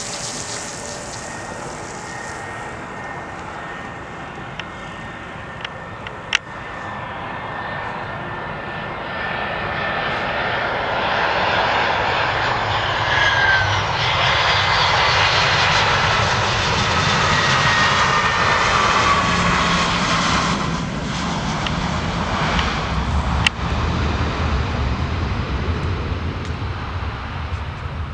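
Jet airliner passing close by. Its engine noise builds to a peak, the engine whine falls in pitch as it goes past, and a deeper rumble follows in the second half.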